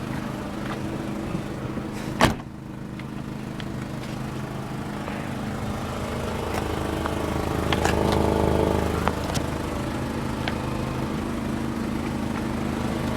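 2007 Volkswagen City Golf's four-cylinder engine idling with a loud, raspy exhaust note from a leaking exhaust with a hole in it. A single sharp thump comes about two seconds in, and the drone swells briefly a little past the middle.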